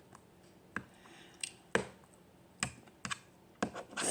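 Scattered light clicks and taps, about seven in four seconds at irregular spacing.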